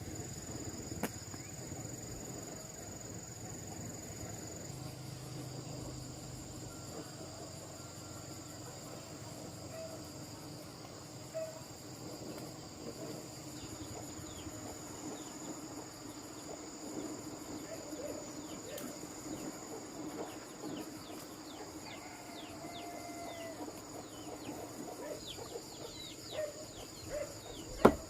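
Rural outdoor ambience: a steady high-pitched insect drone, with scattered short bird chirps and calls over it. A single sharp knock comes near the end.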